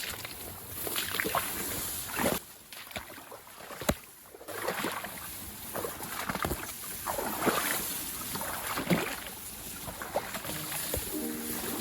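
Water sloshing and splashing in irregular swishes, with a single sharp knock about four seconds in.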